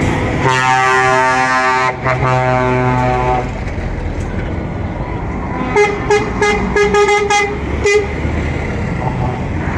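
Truck horns: one long, low-pitched blast lasting about three seconds, then a quick string of about six short, higher-pitched toots from a second horn near the end, over the rumble of engines.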